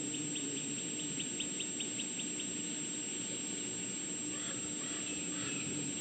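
Insect chirping in an even pulse of about five chirps a second, stopping about two and a half seconds in, over a steady background hum. A few faint bird calls come near the end.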